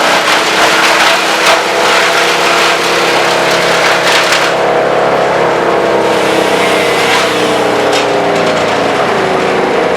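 Vermeer BC1000 brush chipper running hard, with a steady engine note under a dense crackle of branches being chipped. The crackling thins out about halfway through, leaving mainly the engine with a few sharp snaps, its pitch sagging slightly near the end.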